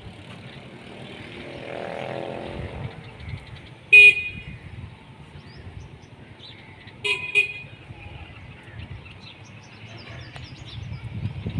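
A vehicle horn toots once, short and loud, about four seconds in, then twice in quick succession about three seconds later, over a low background rumble.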